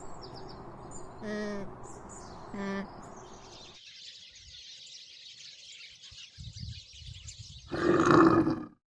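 Bird calls and chirping: two short calls about a second apart over a busy background, then a steady high-pitched chirring. A loud, short noisy sound comes near the end.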